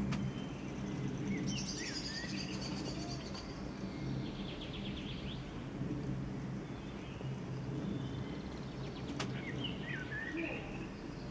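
Small birds chirping outdoors, a few short calls early on and again near the end, with a quick trill about halfway through, over a steady low background hum.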